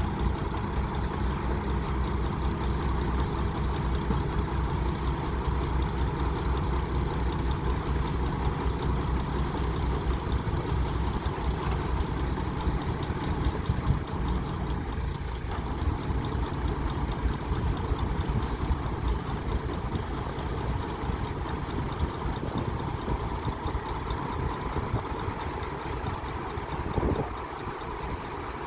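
Diesel engine of a Komatsu D60P bulldozer running steadily. There is a brief high hiss about halfway through. Near the end a short falling whine sounds, and after it the engine runs a little quieter.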